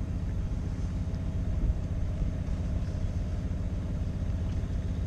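A small sailing yacht's inboard engine running steadily under way: an even low rumble with a faint steady tone above it.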